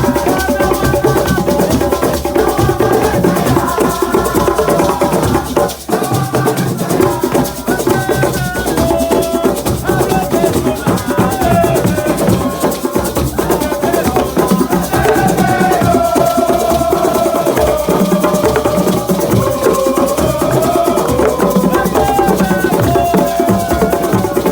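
Assiko music: voices singing over a dense, steady percussion beat from a square box drum and other hand percussion.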